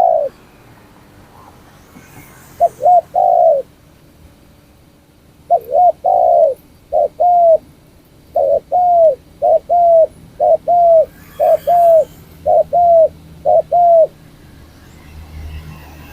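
Trained spotted dove cooing. It gives a short phrase about three seconds in, then a long run of repeated two-part coos from about five to fourteen seconds in.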